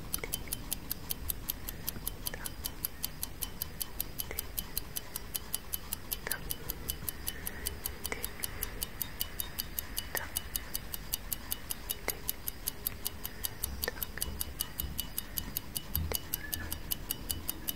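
Clock tick-tock sound effect: fast, even ticking that runs steadily, with a fainter click about every two seconds.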